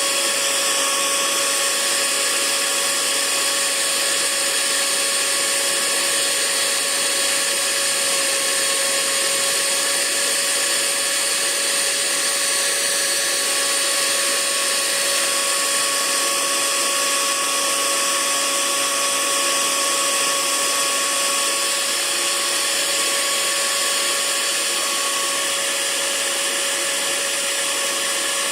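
Hair dryer running continuously: a steady whir and rush of air with a constant motor whine.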